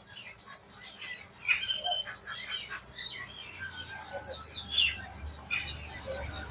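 Birds chirping: a busy run of short chirps and quick falling calls.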